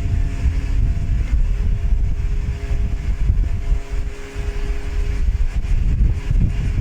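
Wind buffeting the microphone in an uneven low rumble, with a faint steady hum of a distant engine under it.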